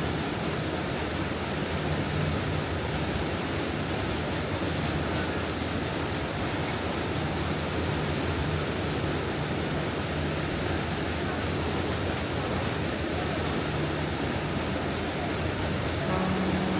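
Steady rushing noise with a low, even hum beneath it.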